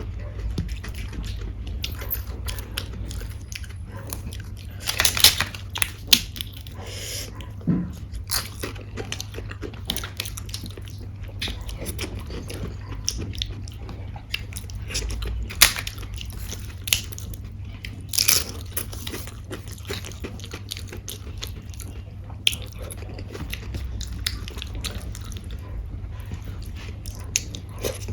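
A person eating rajma and rice close to the microphone: steady chewing broken by irregular crisp crunches, a few of them much louder, over a steady low hum.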